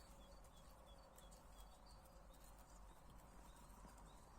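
Near silence, with faint, short high-pitched bird chirps repeating about three times a second and a few faint clicks.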